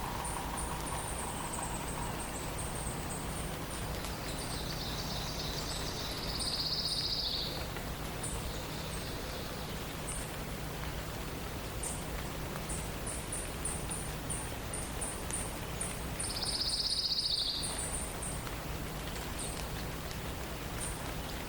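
Songbirds calling in a forest at dawn: one bird repeats short, very high chips throughout, and another gives a longer trilling phrase twice, about four seconds in and again about sixteen seconds in, over a steady hiss.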